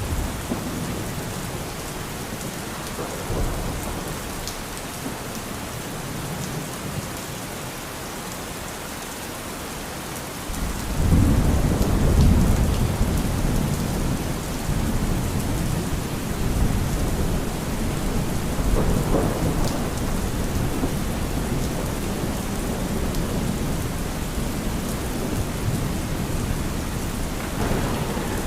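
Steady rain with rolling thunder. A deep rumble of thunder swells suddenly about ten seconds in, and the rain and rumbling run on louder after it.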